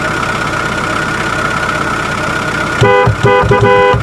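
Toy pickup truck's electronic sound effect: a recorded engine running steadily, then, near the end, several short horn toots.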